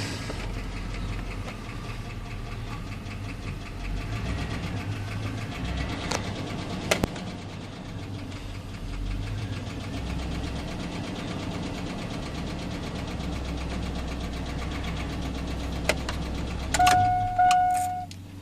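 1999 Chevy Silverado's 5.3L V8 idling with a steady light tick, once every two crankshaft revolutions, from the valvetrain between cam and valves; it comes with low oil pressure at idle. Near the end two short beeps sound at the same pitch.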